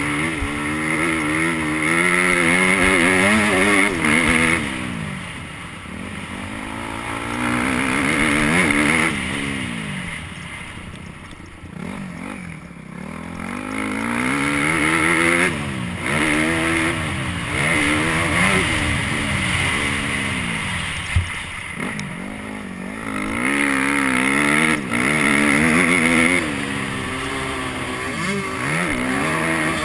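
Motocross dirt bike engine being ridden hard, heard from an onboard camera: the revs climb again and again as the throttle opens and shifts through the gears, then drop off each time the throttle is closed.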